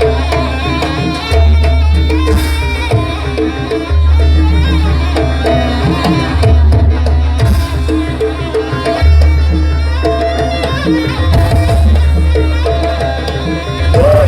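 Loud traditional jaranan ensemble music: hand drums beating quickly over held pitched notes, with long low booming tones that come in several times.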